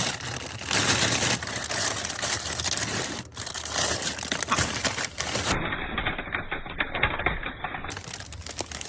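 Rapid, dense clicking and clattering of hard objects. It goes duller, with the high end cut off, from about five and a half to eight seconds in.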